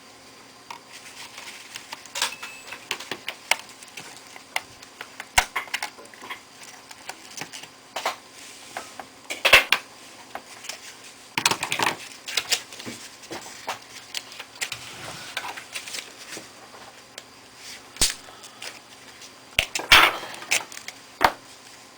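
Small irregular clicks, taps and clatters of a screwdriver, screws and plastic and metal parts being handled while a Toshiba A300 laptop is put back together, with a few louder clatters about halfway through and near the end.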